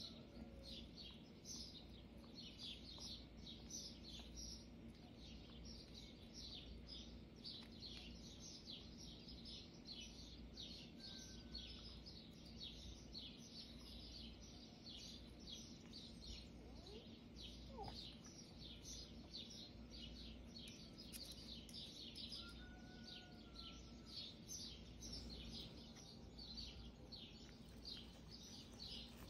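Faint, continuous chirping of small birds, short high chirps repeating about two or three times a second, with an occasional brief whistled note.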